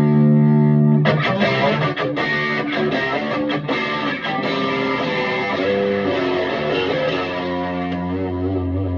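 Electric guitar played through a Vintage Sound Amp with an Origin Effects Revival Drive pedal adding a hint of overdrive. A chord rings out, then about a second in a new passage of picked chords and single notes begins.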